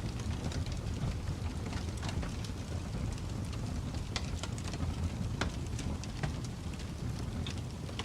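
Fireplace fire crackling: a steady low rumble of flames with irregular sharp pops and snaps scattered through it, a few of them louder.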